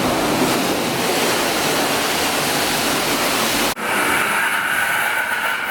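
Car-wash high-pressure water spray, a steady rushing hiss. It cuts off abruptly a little under four seconds in, and a different steady rushing noise with a high whine follows.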